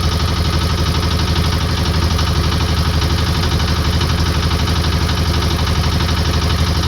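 A vehicle engine running steadily, with an even low pulsing.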